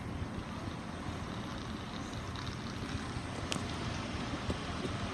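Steady low rumble and hiss of railway station background noise, with a single sharp click about three and a half seconds in.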